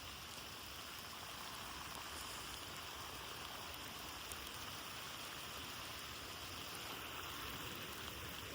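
Steady, even hiss of a snowstorm, with wind-driven snow hissing against the microphone. There are no separate knocks or steps.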